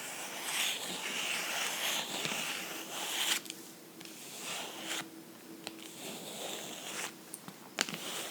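Fingernails scratching and rubbing on a book, steady for the first three seconds or so, then softer and patchier, with a couple of light taps near the end.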